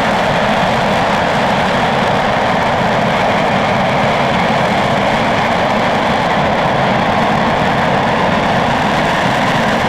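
RS-25 liquid-hydrogen, liquid-oxygen rocket engine hot-firing on a test stand: a loud, steady, unbroken noise of the exhaust.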